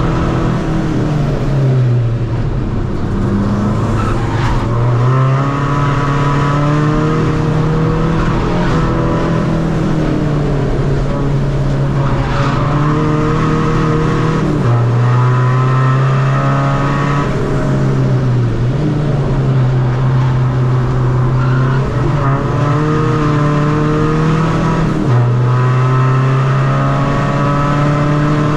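Tuned Seat Ibiza FR's turbocharged 2.0 common-rail diesel engine driven hard on track, its revs climbing and then dropping several times as it shifts through the gears.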